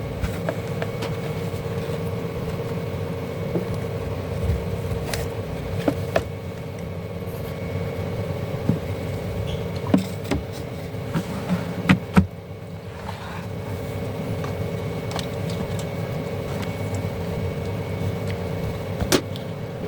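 Steady low mechanical hum with a faint steady tone, broken by scattered light clicks and taps.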